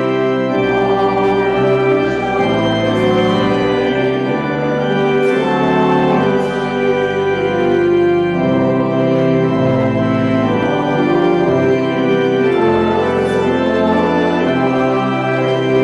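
Church organ playing music in sustained chords that change every second or so.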